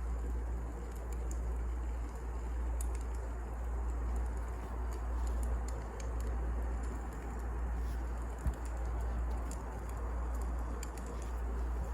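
Wood fire burning, with sparse light crackles and pops over a steady low rumble, and one soft thump about eight and a half seconds in.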